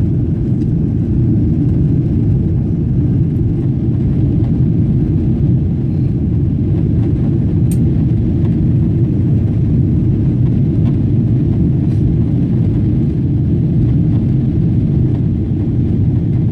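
Cabin noise inside a Boeing 777-200 airliner: a loud, steady low rumble of the jet engines and airframe, with no clear rise or fall in pitch.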